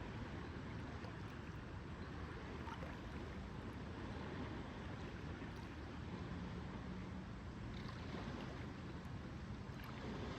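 Lakeside ambience: gentle water lapping, with a steady soft wash of sound. A faint low hum comes in briefly a little past halfway.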